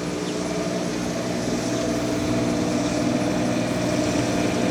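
An engine running steadily at idle, a little louder toward the end.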